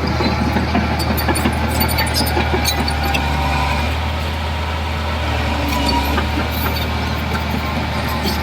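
Heavy diesel engine of earthmoving machinery running steadily with a deep drone, with scattered short clanks and clicks of metal over it.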